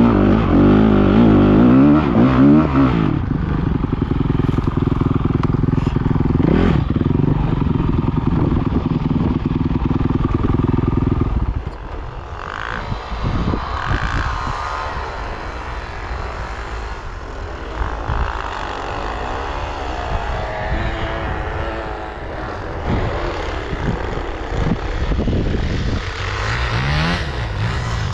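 Enduro dirt bike engine running hard with the revs rising and falling. About twelve seconds in it drops off and becomes quieter, with uneven revving and a few knocks, then revs up again near the end.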